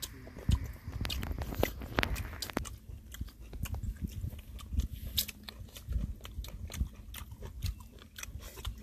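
A man chewing and biting fried chicken gizzards close to the microphone: a steady run of small crunchy clicks with soft low thumps.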